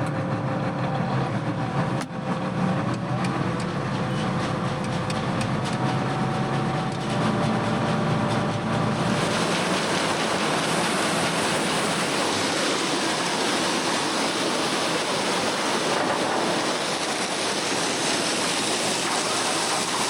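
Diesel engine of a heavy vehicle with air brakes running just after start-up, warming up and building air pressure, with a steady hum and a click about two seconds in. About nine seconds in, a loud, even rushing noise takes over.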